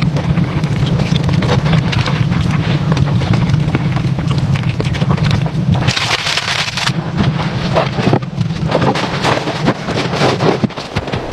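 Wood fire crackling and popping with many sharp snaps, over a steady low rumble that stops about six seconds in.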